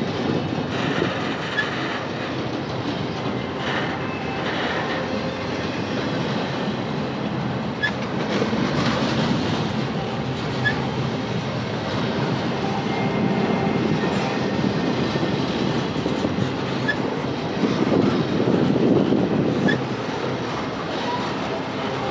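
Double-stack intermodal well cars of a freight train rolling past at speed: a steady rumble of steel wheels on the rails, swelling a little near the end.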